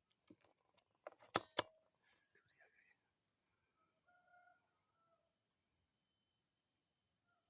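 Two sharp shots about a quarter of a second apart, against a steady chorus of crickets and insects. Short chirping calls follow.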